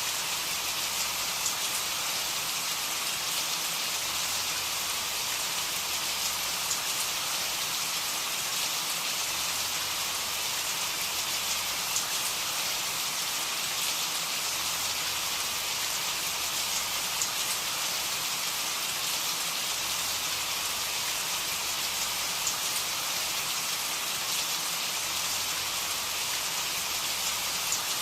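Steady rain falling, an even hiss with faint scattered sharper drops.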